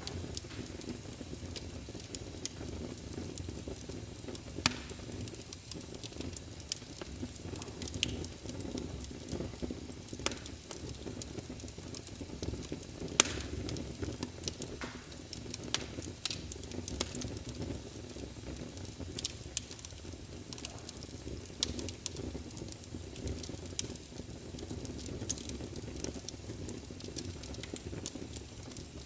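Wood fire in a fireplace crackling, with irregular sharp pops over a low steady rumble; one louder pop about halfway through.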